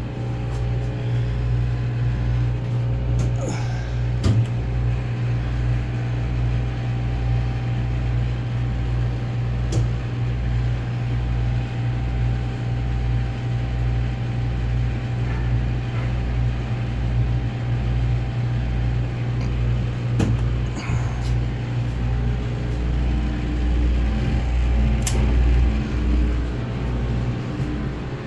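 Heavy machinery running steadily with a constant low hum and a regular throb about twice a second. A few sharp clicks or knocks sound through it.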